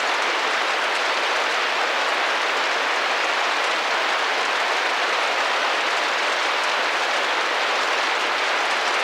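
Steady rain pattering on a window pane, a dense, even hiss of drops with faint fine ticks.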